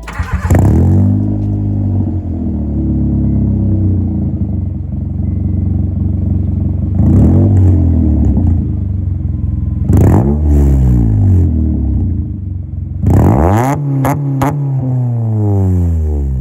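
Honda Civic EP2's four-cylinder engine being revved through its exhaust, rising in pitch and falling back to a steady idle four times. The last rev is held longest, with a few sharp cracks as it drops.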